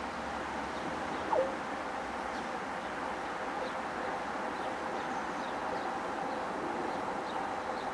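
A distant electric passenger train approaching: a steady hum and rumble with a faint steady whine. Small birds chirp faintly, and a short falling chirp stands out about a second and a half in.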